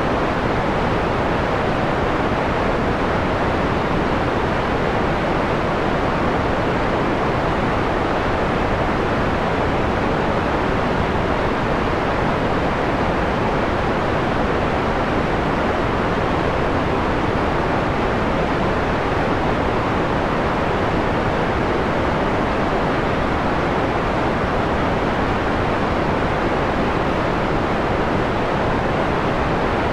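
Steady, unchanging white noise with the highs rolled off, giving a muffled, mellow hiss.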